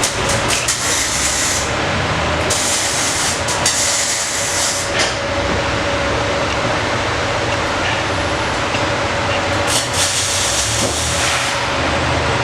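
Loud steady workshop machine noise while an exhaust system is being worked on, with a constant whine and low hum. Hissing comes in three long stretches: at the start, from about two and a half to five seconds in, and again around ten seconds in.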